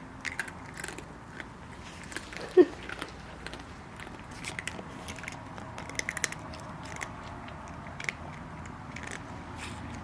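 Irregular crunching and clicking, as of something chewing dry, crunchy food. About two and a half seconds in there is one brief, sharp squeak that drops in pitch.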